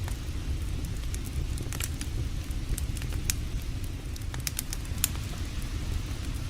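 Campfire crackling, with sharp pops scattered irregularly through it over a steady low rumble.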